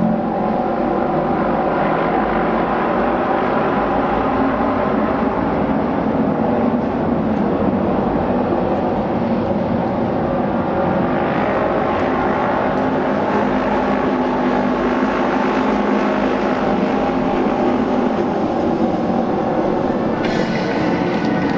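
Auto race motorcycles with 600 cc twin-cylinder engines running flat out in a pack around an oval track. The engine noise is steady and loud, swelling twice as bikes pass close.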